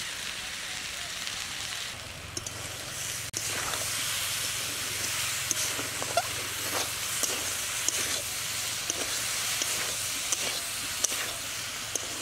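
Jujubes (kul) sizzling in hot oil in an aluminium wok for a pickle, with sugar just added. A metal spoon scrapes and clinks against the pan at scattered moments as the mixture is stirred.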